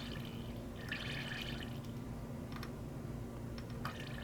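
Faint, brief hiss of butane escaping from a leaking lighter gas valve about a second in, with a few light clicks from the small lighter parts being handled, over a steady low hum.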